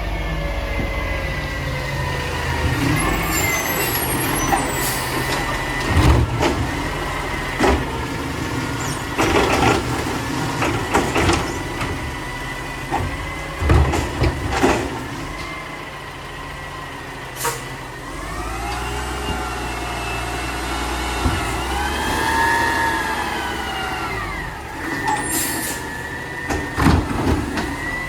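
Mack LR garbage truck with a Labrie Automizer side-loader body running, its engine revving up and back down about two-thirds of the way through as it drives the hydraulics, with repeated knocks and clanks of recycling being dumped and packed and short air hisses.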